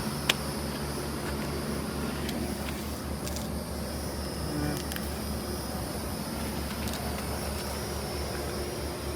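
Large Carrier air conditioner condensing unit running: a steady low hum from the compressor and condenser fan, with a fast throb in the low end. A single sharp click sounds right at the start.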